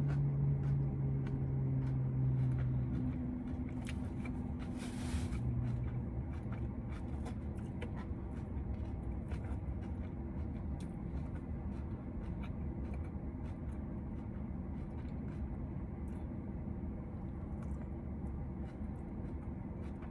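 Steady low rumble, like a car's engine and cabin noise heard from inside, with a steady hum that fades out about three seconds in and scattered faint clicks and taps.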